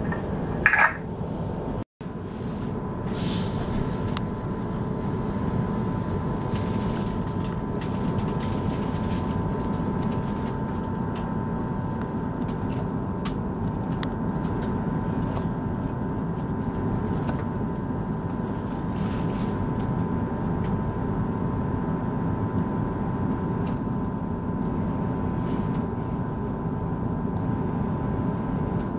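Steady interior hum of a stationary electric passenger train, with a constant thin whine from the carriage's onboard equipment and a few faint clicks, heard from inside the carriage.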